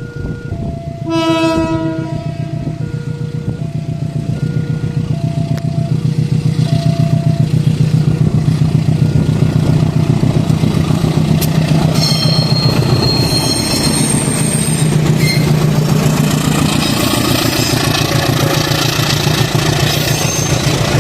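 A CC 201 diesel-electric locomotive gives one short horn blast about a second in, over a repeating few-note tune. Its engine then runs with a steady low hum and wheel clatter that grows louder as the train passes, with high wheel squeal from about halfway through.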